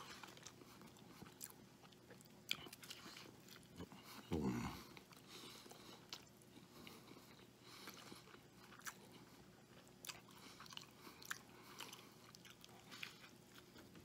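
A man chewing mouthfuls of a bacon cheeseburger, close to the microphone, with soft wet mouth clicks throughout. A brief louder sound comes about four seconds in.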